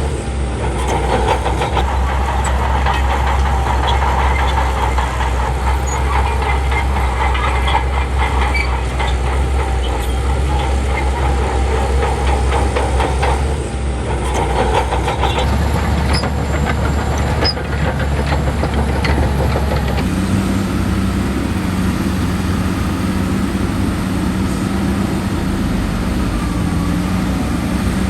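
Heavy diesel earthmoving machinery running, with a steady deep engine sound and continual rattling and clanking. About 20 s in the sound changes abruptly to a smoother engine hum with fewer clanks.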